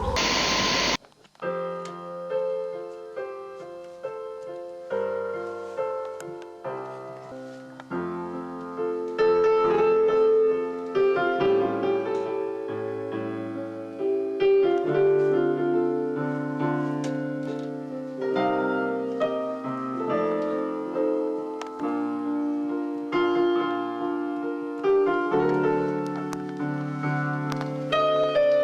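Solo piano music, slow held chords and a melody, starting about a second in after a loud rushing noise cuts off.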